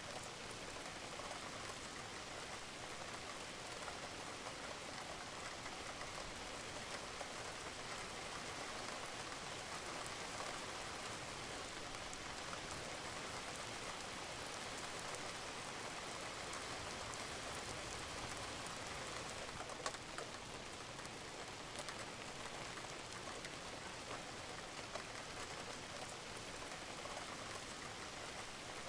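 Steady rain falling on a roof, an even hiss with many small drop ticks and water dripping.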